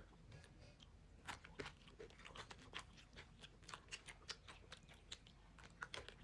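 Close-up chewing of a dry puffed-rice snack with peanuts and chickpeas. Quick, irregular crisp crunches start about a second in and go on.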